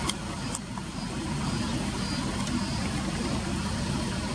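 Steady low rumble of vehicle noise. A couple of short sharp high ticks come near the start, and faint thin high notes come and go.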